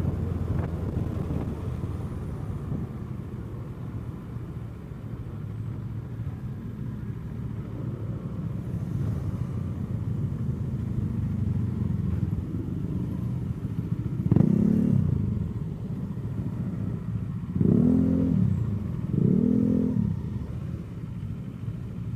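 Kawasaki Eliminator SE parallel-twin motorcycle engine running at low revs while riding. About two-thirds of the way in come several short bursts where the revs climb and drop back within a second, each louder than the drone.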